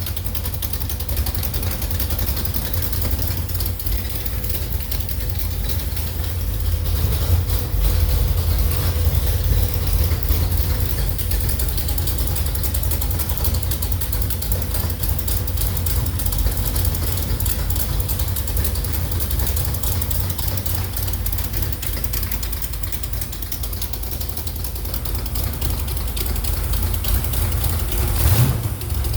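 Engine running steadily on a test stand, with a strong low throb and a brief sharp change just before the end.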